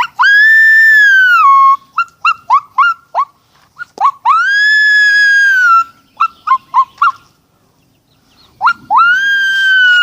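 A person imitating a coyote with their voice: three long, high howls that rise and then fall, alternating with quick runs of short yips.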